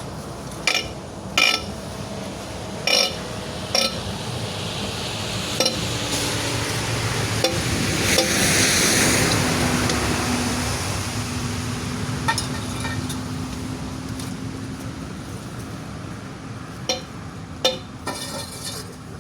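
Metal tools and wheel parts clinking sharply about a dozen times during a truck tyre change, with a vehicle's noise swelling and fading around the middle and a steady engine hum in the second half.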